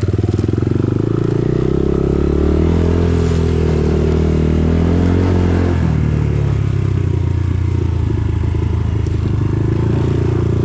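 Dirt bike engine running under way on a trail, revving up about a second in, holding higher revs, then dropping back about six seconds in.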